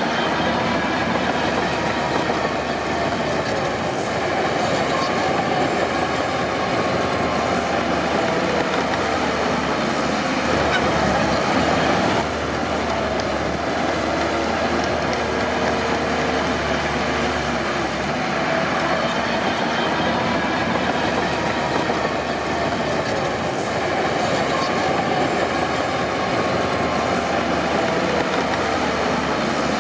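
Crawler bulldozer working, its diesel engine running under load while the steel tracks clank, with a wavering high squeal over the steady machine noise.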